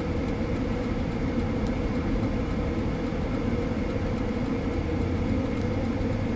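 Steady noise inside a car's cabin, picked up by a dashcam: a low rumble of engine, road and wind with a faint even hum, and no sudden events.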